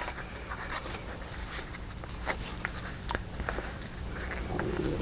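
Hands rummaging through craft supplies: scattered light clicks and soft rustling as ribbon, paper and small pieces are moved about.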